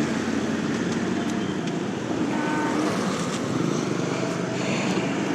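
Steady road noise from a moving motorcycle, a Bajaj Pulsar NS200: engine running with wind and tyre noise, and other traffic around.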